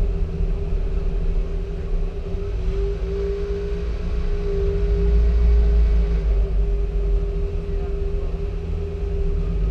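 Car engine running low and steady as the car crawls at walking pace, a deep rumble with a steady higher tone running through it.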